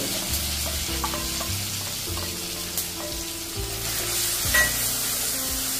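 Crushed shallots, garlic, ginger and green chilli sizzling steadily as they are tipped into hot coconut oil in a clay pot and stirred with a spatula.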